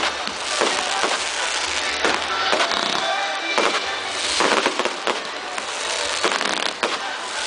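Fireworks going off in a dense, irregular string of bangs and crackles.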